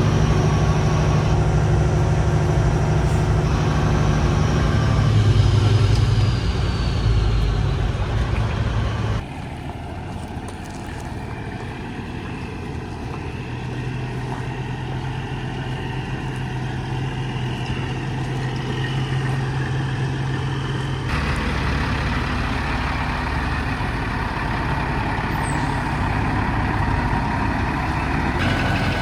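Truck engine running steadily while driving, in several spliced segments whose sound changes abruptly twice.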